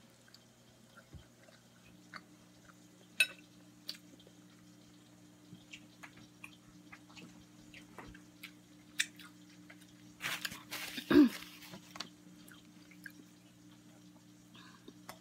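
Quiet eating sounds: soft chewing of spaghetti and small clicks of a fork, over a steady low hum. About ten seconds in comes a louder rustling that lasts a couple of seconds.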